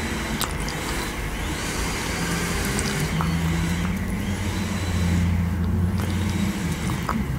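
Close-miked chewing of soft marshmallow: a muffled low rumble, with a few sharp sticky mouth clicks.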